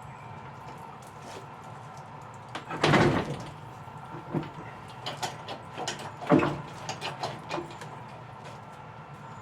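Irregular knocks and clicks, with two louder thuds about three seconds and six seconds in.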